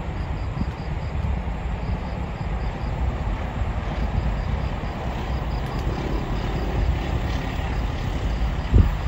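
Low, steady rumble of a passenger train approaching from far off, with a brief loud thump about a second before the end.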